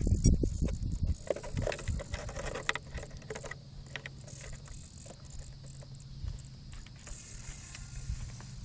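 Radio-controlled helicopter's rotor buzzing steadily in flight, a faint even hum. It is preceded by low thumps in the first second or so.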